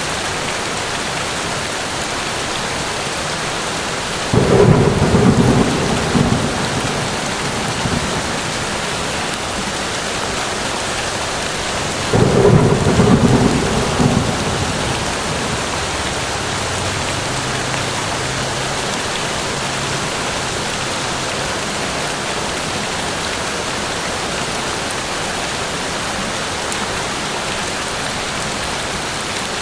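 Steady rain falling throughout, with two rolls of thunder: the first about four seconds in, the second about twelve seconds in, each rumbling low and dying away over a few seconds.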